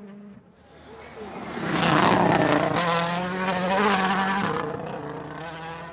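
World Rally Car's turbocharged 1.6-litre four-cylinder engine at high revs as the car comes through a special stage. It builds about a second in, is loudest about two seconds in and again near four seconds, with a short dip between, then fades as the car goes away.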